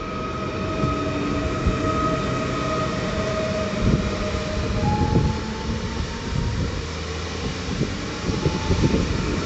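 Train running on the tracks: a steady rumble of wheels on rail with irregular knocks, over thin whining tones from its drive. A new whine starts about five seconds in and creeps up in pitch.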